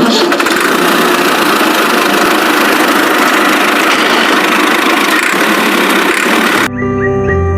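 Vehicle engine running steadily with a harsh, rattling sound and little bass. It cuts off abruptly near the end, giving way to music.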